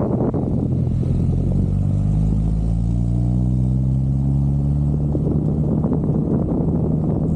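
Toyota Celica GT-Four's turbocharged four-cylinder engine pulling under acceleration. It rises in pitch for about three seconds, then holds steady.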